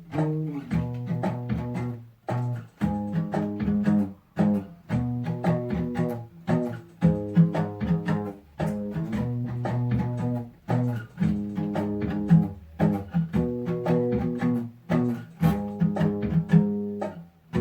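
Instrumental introduction of a song: low plucked string notes in a repeating figure, without singing.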